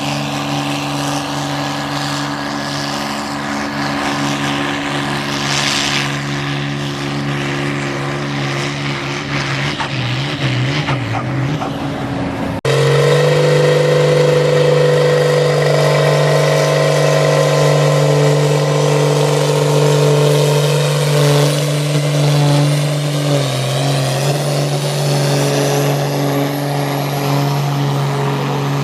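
Pulling tractor's engine running hard at steady high revs, a loud held note with little change in pitch. The sound steps abruptly louder a little before halfway through.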